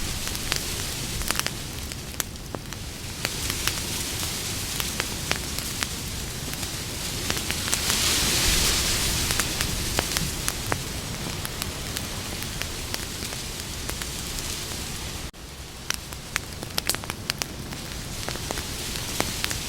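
Wood campfire burning, with frequent sharp crackles and pops over a steady hiss. The hiss swells for a few seconds around the middle, and the sound cuts out for an instant about three-quarters of the way through.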